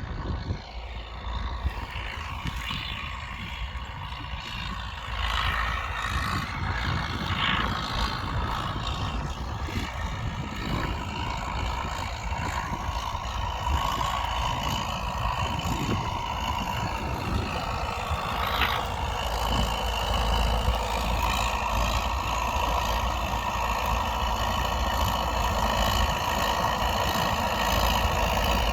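UTB U650 tractor's four-cylinder diesel engine running steadily while pulling a three-furrow plough, getting a little louder about five seconds in.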